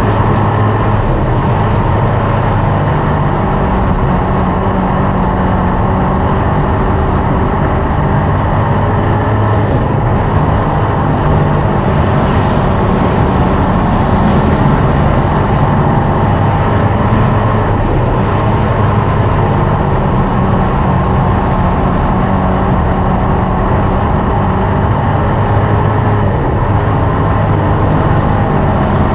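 Dirt-track race car engines running hard at speed, a loud, steady engine sound with no break.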